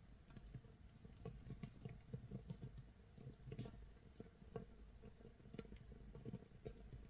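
Makgeolli starter mash (mitsul) fermenting in its jar 24 hours in: a faint, irregular crackle of many tiny pops as carbon dioxide bubbles burst at the surface of the active yeast mash, sounding like light rain or firewood crackling.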